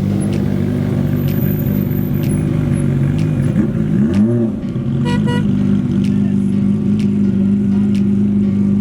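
Car engine idling steadily, with a brief rev that rises and falls about four seconds in, followed about a second later by a short, horn-like beep.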